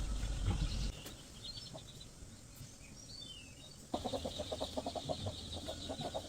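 Small birds chirping briefly, then from about four seconds in a sudden run of rapid, repeated chicken clucks.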